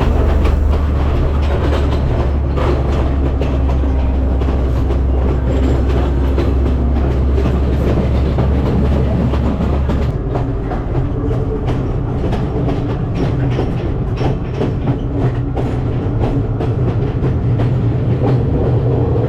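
Passenger train running along the track, heard from on board: a steady rumble with the wheels clicking over the rail joints. A strong low hum under it stops about halfway through.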